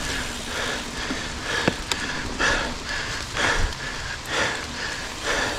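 A mountain biker breathing hard, about two heavy breaths a second, over rough trail rumble, with a couple of sharp knocks from the bike near the middle.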